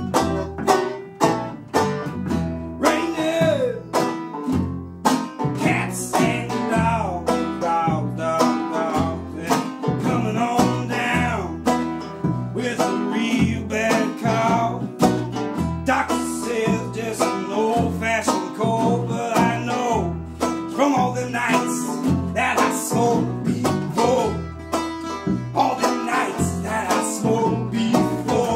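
Banjo and acoustic guitar playing a country-bluegrass tune, with many quickly picked notes.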